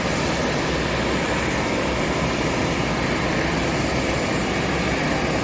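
Steady jet aircraft engine noise, an even rushing hum that holds at a constant level.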